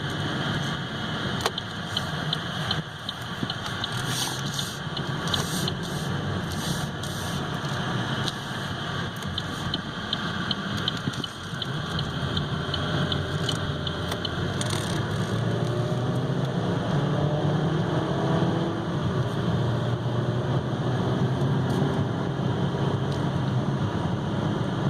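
Road and engine noise inside a 2015 Chevy Malibu's cabin while it is being driven. The engine note rises through the middle as the car speeds up toward about 60 mph, and a light rapid ticking runs through the first part.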